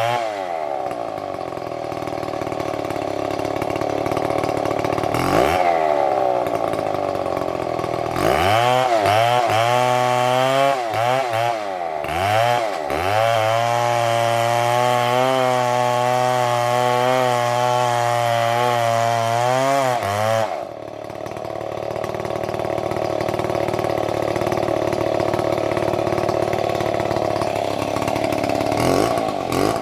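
Chainsaw running under the throttle. It revs up and down several times in the first half and holds a high pitch for a while. About two-thirds of the way in it drops suddenly to a lower, steadier note, then revs up again near the end.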